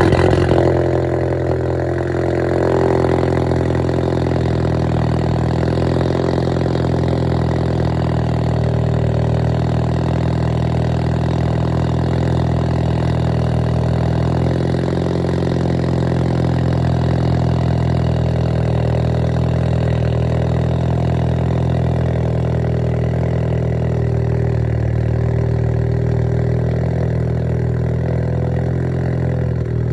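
2014 Ford Focus ST's turbocharged 2.0-litre four-cylinder through a fully straight-piped exhaust on a cold start: it flares loudly as it catches, then settles within a couple of seconds into a steady, loud idle.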